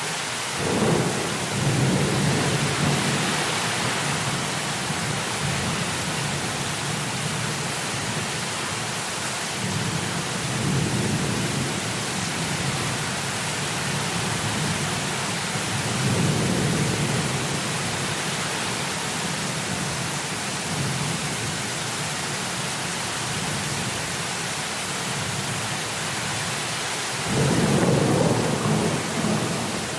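Heavy rain hissing steadily, with thunder rumbling low several times: about a second in, around ten and sixteen seconds, and loudest near the end.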